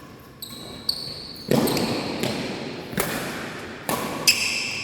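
Badminton rally: sharp racket strikes on the shuttlecock, about six in a few seconds, with shoes squeaking on the court floor, echoing in a sports hall.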